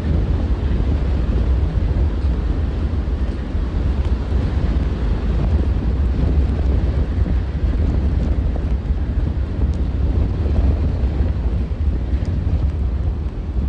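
Storm wind buffeting the microphone: a loud, steady low rumble with a rushing hiss above it, never letting up.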